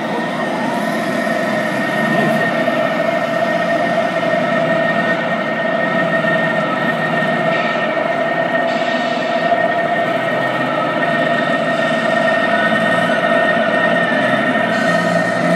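Tamiya 1/14 radio-controlled trucks running together, a steady mechanical drone with a constant high whine running through it.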